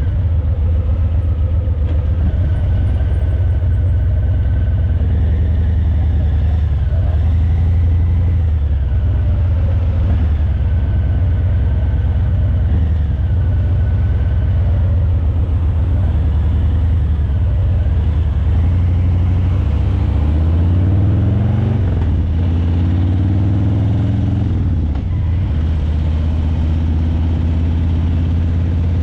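Harley-Davidson Breakout 117's Milwaukee-Eight V-twin running through Vance & Hines Eliminator 300 slip-on mufflers: a steady low rumble at low speed. About two-thirds of the way through, the pitch rises as the bike accelerates, then drops back before it settles again.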